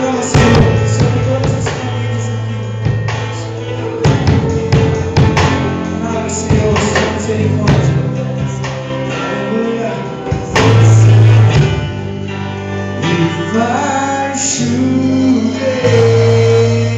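Gospel worship music: a band playing steady low chords with drum hits. A voice sings in long gliding lines in the second half.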